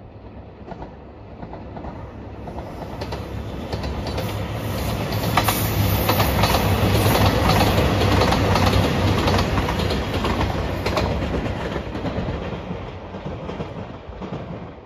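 JR Shikoku 2700-series diesel limited express approaching, passing close by and pulling away: diesel engine drone and wheels clicking over the rail joints, building to loudest about halfway through and fading toward the end.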